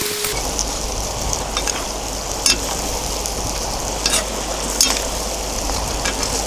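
Meat, carrots and onion frying in a kazan: a steady sizzle with a few sharp pops.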